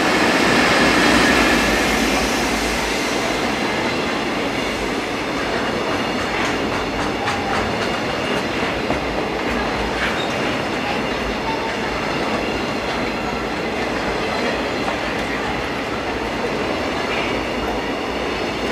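JR Freight EF65 electric locomotive passing close by, loudest about a second in, followed by a long container freight train rolling steadily past, its wagon wheels clacking over the rail joints.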